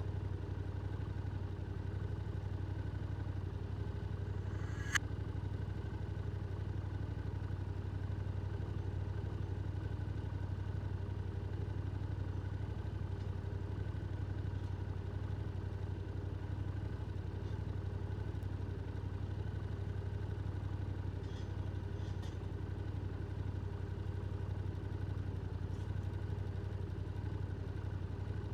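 Yamaha R7's 689 cc parallel-twin engine through an aftermarket Akrapovic exhaust, running at a steady, unchanging pitch. A single sharp click sounds about five seconds in.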